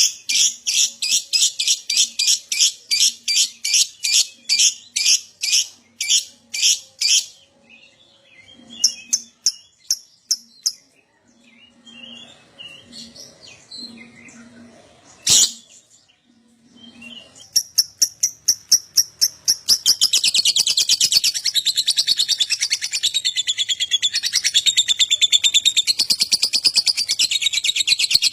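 Lovebird calling: sharp high chirps repeated evenly, about three a second, for the first seven seconds. After a sparser stretch with a single sharp click about fifteen seconds in, the chirps speed up and run together into a long, continuous rapid chattering trill, the lovebird's "ngekek" song.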